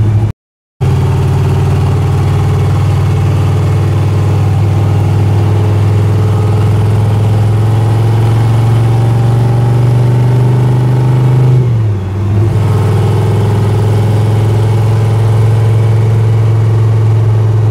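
Car engine running steadily under load at road speed, its pitch creeping up slowly, then dipping briefly near the middle as if shifting gear, before holding steady again.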